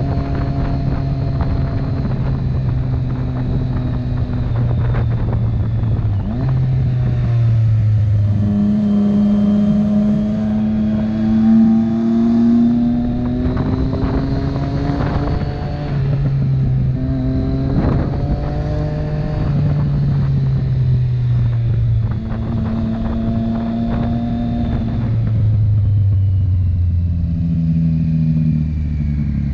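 Motorcycle engine running while riding, its pitch rising and falling several times through gear changes and throttle.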